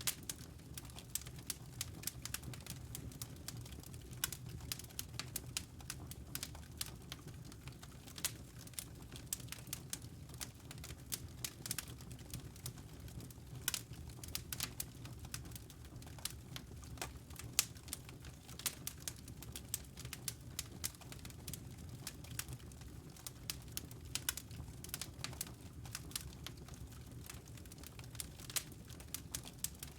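Wood fire crackling in a fireplace: many irregular sharp snaps and pops over a steady low rumble.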